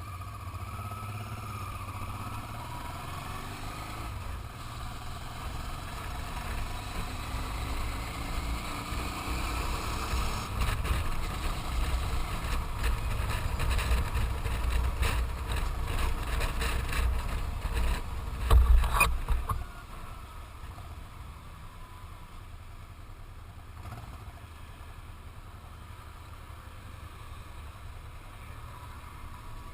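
Motorcycle ride: the engine running under a heavy low rumble of wind on the microphone that builds with speed, a brief loud burst near 19 seconds, then the wind noise drops away about 20 seconds in and only a quieter steady engine sound remains.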